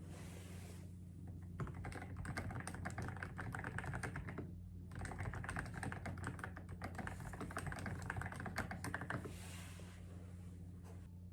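Fast typing on a computer keyboard, in two long runs of rapid key clicks with a brief pause about halfway through.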